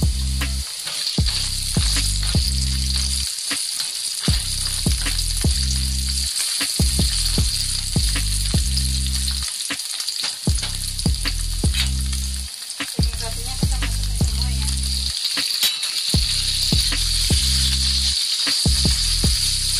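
Sliced shallots and garlic sizzling in hot oil in a nonstick frying pan, stirred with a spatula that taps and scrapes on the pan. The sizzle grows louder in the second half, and near the end soy-marinated beef goes into the pan and is stirred.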